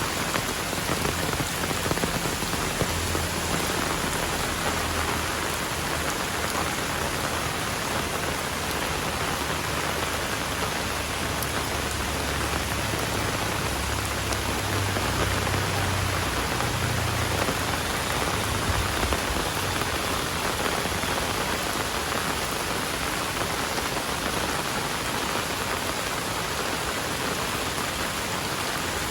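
Heavy rain falling steadily. A low rumble runs underneath from about three seconds in until a little past the middle.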